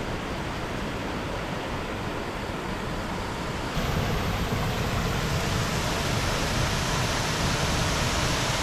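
Waterfall rushing: a steady, loud wash of falling water, which grows louder about four seconds in.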